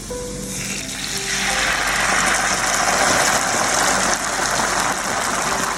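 Sauce mixture poured into a hot pan of garlic and olive oil, sizzling hard. The sizzle builds over the first second or two, then holds steady.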